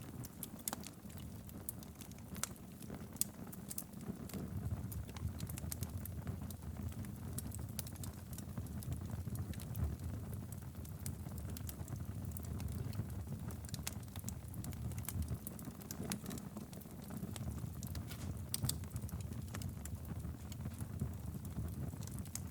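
Wood fire burning steadily in a fireplace: a low constant rumble of flames with frequent irregular sharp crackles and pops.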